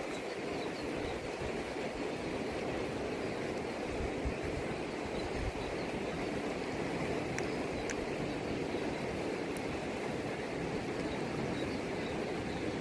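Fast-flowing river water rushing steadily, with two faint clicks a little past the middle.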